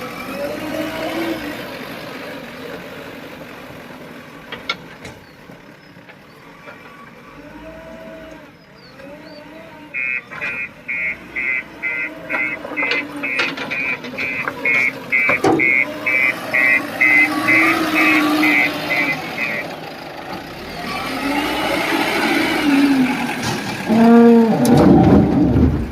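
JCB backhoe loader's diesel engine working, with pitch rising and falling as it revs. Its reversing alarm beeps about twice a second for roughly ten seconds in the middle. Near the end there is a loud pitched sound.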